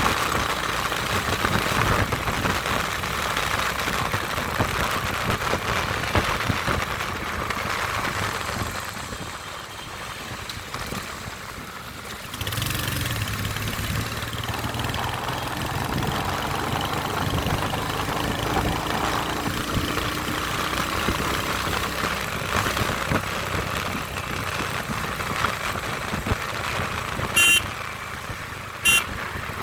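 Royal Enfield Hunter 350's single-cylinder engine and exhaust running steadily, with a shift in its note about halfway through. Two short sharp beeps come near the end.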